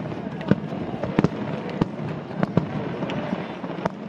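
Distant aerial firework shells bursting, about eight sharp bangs at irregular intervals, some close together in pairs.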